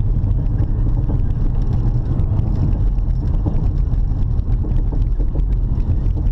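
Honda Odyssey driving, heard inside the cabin: a steady low road and engine rumble with a repeated clunking from a wheel. The clunking is the sign of loose wheel nuts.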